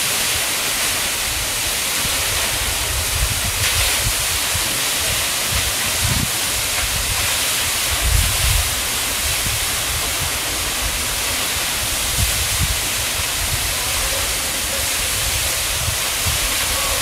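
Steady rushing roar of the 85-metre Higashi Shiiya Falls, heard close to the plunge, with irregular low rumbles underneath.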